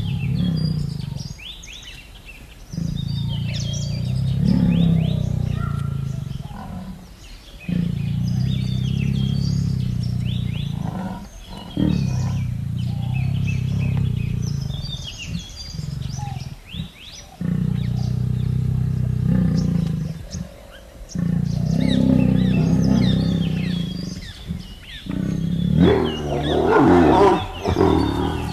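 A large animal roaring again and again, in long, low calls of a few seconds each with short breaks between them, while small birds chirp in the background.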